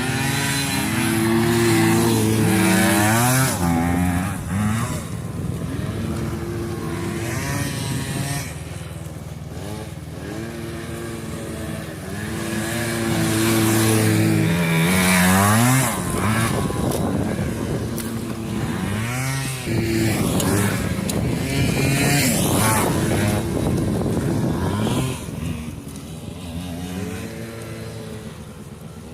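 Two small vintage dirt bikes, a Honda Ez90 Cub and a two-stroke Kawasaki KE100, racing. The engine note repeatedly climbs in pitch under full throttle and then drops at each gear change or as the throttle is backed off for a turn.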